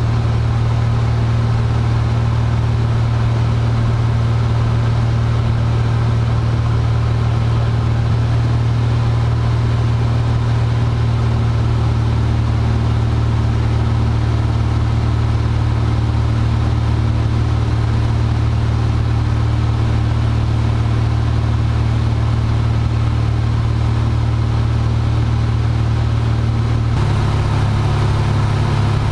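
Cessna 172F's six-cylinder Continental O-300 engine and propeller droning steadily in flight, heard from the cockpit. Near the end the engine note shifts to a slightly different pitch.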